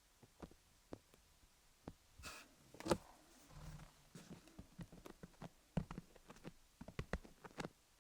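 Faint, irregular light taps and clicks on a rhinestone-covered dummy-head microphone, with a short scratch a little over two seconds in and a soft rustle soon after.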